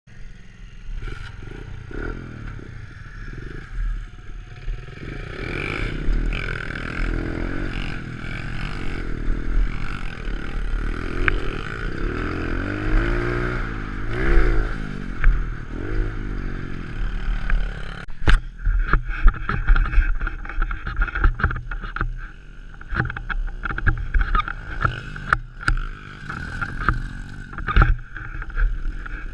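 Pit bike engine revving up and down as the bike is ridden on track, with wind rumbling on the microphone. In the second half there are scattered knocks and clatter.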